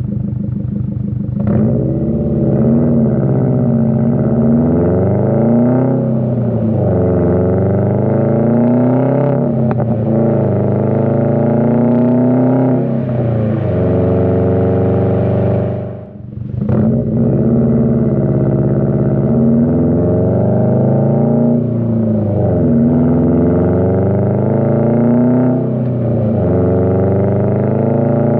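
Subaru WRX STI's turbocharged 2.5-litre flat-four running through an AWE Track Exhaust, the car accelerating through the gears: the engine note climbs in pitch, then drops at each shift, about five times. Roughly halfway through the note briefly cuts out and comes back, as at a clutch-in and shift.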